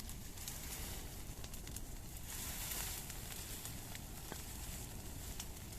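Bonfire burning, with scattered sharp crackles and pops over a steady rush.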